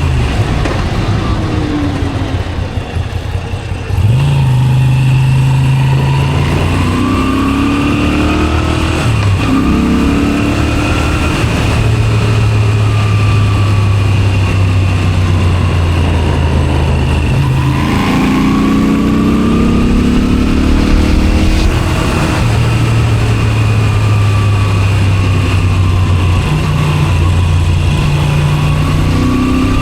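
Moto Guzzi V7 Special's 853 cc transverse V-twin running through a Zard aftermarket exhaust while riding. The engine pulls up through the gears and eases off in turn, dropping back briefly before picking up sharply about four seconds in.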